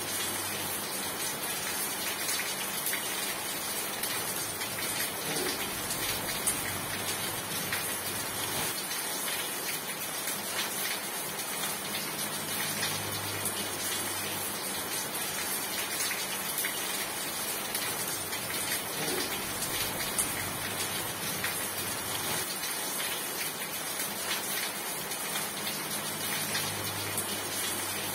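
Steady, even rainfall pattering on surfaces. A faint low hum rises and fades about every 14 seconds.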